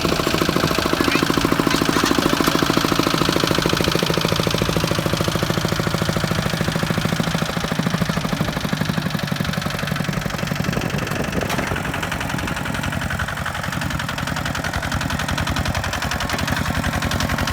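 Kubota walking tractor's single-cylinder diesel engine running steadily, a fast even chugging.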